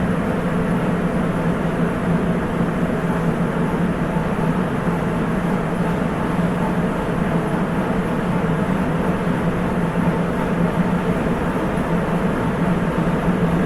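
Interior running noise of a Sapporo Municipal Subway 8000 series car travelling at steady speed through the tunnel: a constant, loud hum and rumble from its rubber-tyred running gear.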